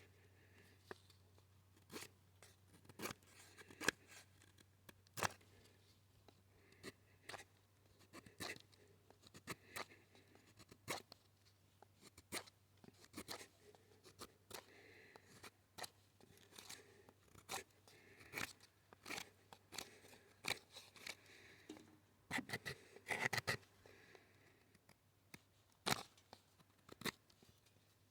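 Close-up trigger sounds: sharp irregular clicks, snips and small crunches, about one or two a second, with a quick flurry of them a little before the end, over a faint steady hum.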